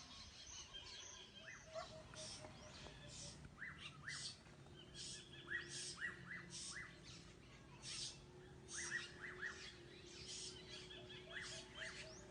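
Several small birds chirping, a busy run of short, high chirps and quick whistled sweeps repeating throughout, faint, with a low steady tone underneath for several seconds in the middle.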